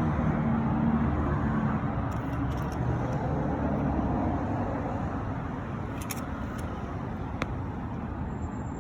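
Steady low rumbling background noise of the kind heard from road traffic or a moving car, with a few faint clicks about six and seven seconds in.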